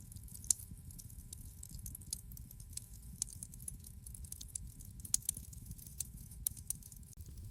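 Wood fire crackling in a fireplace: irregular sharp pops and snaps over a steady low rumble of the flames, with a loud pop about half a second in.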